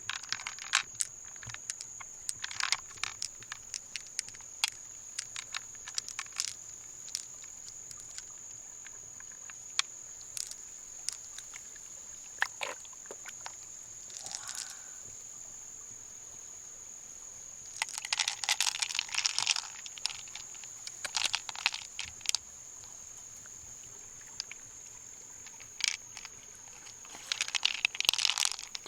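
Freshwater mussel shells being handled and worked open: scattered sharp clicks and crunching scrapes of shell, in denser bursts of scraping about two-thirds of the way in and again near the end. A faint steady high whine runs underneath.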